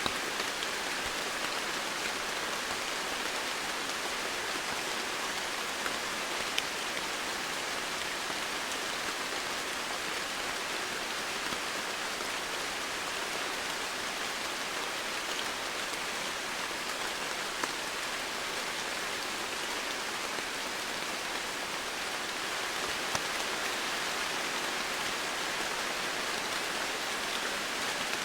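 Steady rain falling in a jungle, an even hiss with a few sharper drop ticks standing out now and then.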